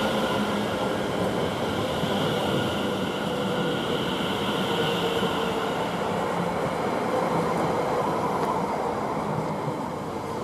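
Greater Anglia Class 720 electric multiple unit moving through the station: a steady electric traction whine of several held tones over the running noise of wheels on rail, easing off slightly near the end.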